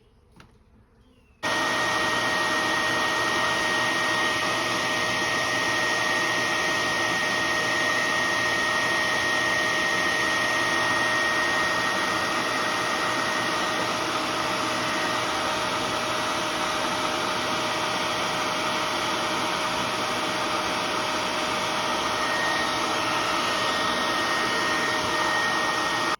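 A vacuum motor switches on suddenly about a second and a half in and runs steadily at full speed with a high whine, sucking bees out of the comb into a bucket.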